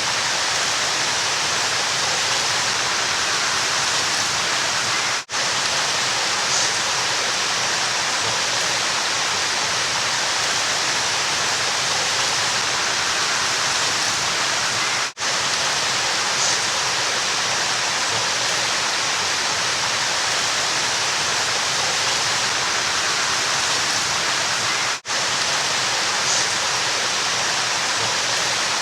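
River water rushing in a steady, even hiss. It dips out for an instant three times, about ten seconds apart.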